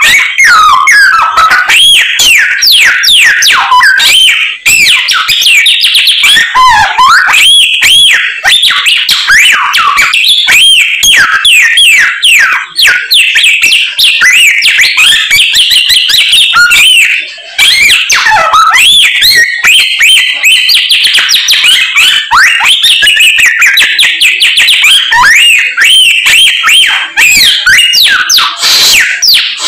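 Samyong songbird singing loudly and without pause: a rapid, varied stream of whistled notes that glide up and down, broken only briefly about two-thirds of the way through. It is pouring out its full repertoire of learned songs.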